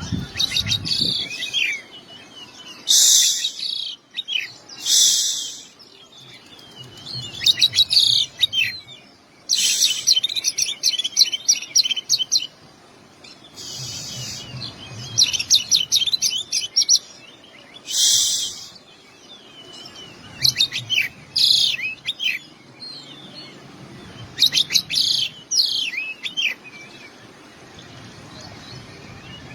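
Oriental magpie-robin (kacer) singing in repeated bursts of rapid, varied phrases, quick whistled trills mixed with several harsh scratchy notes, with short pauses between phrases: a song filled with learned mimicked phrases ('isian').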